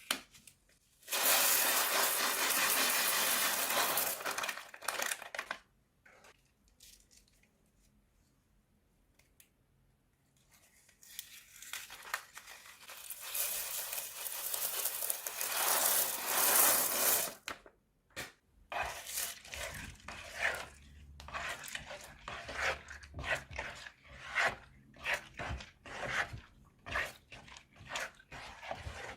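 Slime-making sounds: two long stretches of steady rustling, crinkling noise, then from about two-thirds of the way through a quick run of short sticky pops and clicks as the slime is worked.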